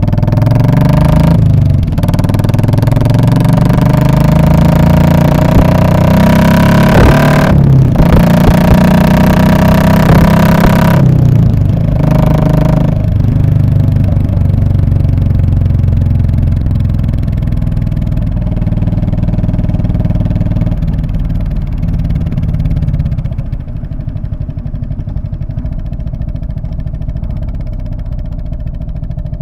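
Royal Enfield Classic 500's single-cylinder engine through its muffler, its revs climbing in several steps with brief breaks between them as it accelerates through the gears. It then settles to a steady cruise and eases off, quieter, near the end.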